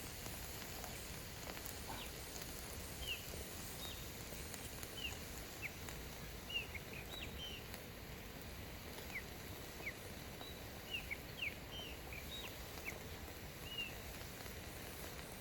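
Birds chirping: many short, high, separate chirps scattered irregularly over a steady background hiss.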